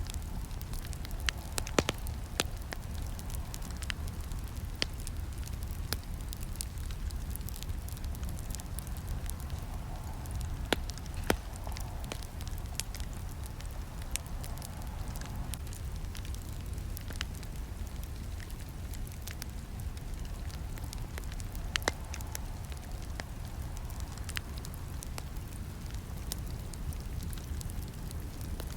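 Campfire burning: a steady low rumble of flames with frequent sharp crackles and pops of burning wood, a few pops standing out louder.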